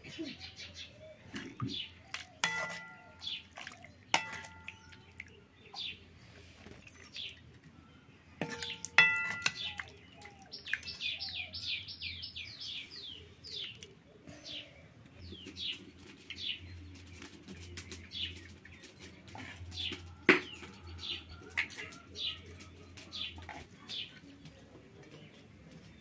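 Birds chirping with short, quick falling chirps, including a fast run of them about ten seconds in. A few ringing metallic clinks come near the start and about nine seconds in, and a single sharp tap comes about twenty seconds in.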